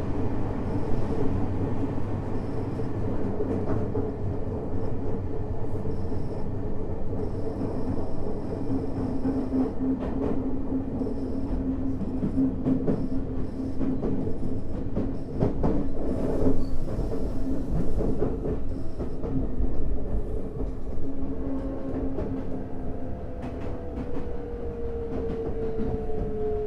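Tokyo Metro 05 series subway car heard from inside the cabin while running: a steady rumble of wheels on rail, with scattered clacks over rail joints. From about 21 seconds in, the Mitsubishi IGBT-VVVF traction motor gives a whine that slowly falls in pitch as the train slows.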